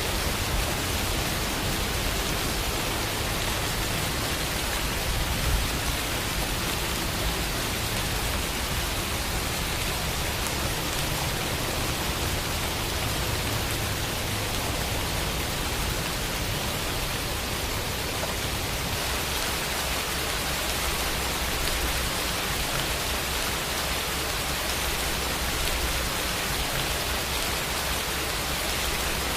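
Steady heavy rain falling, a dense even patter of drops with no other sounds.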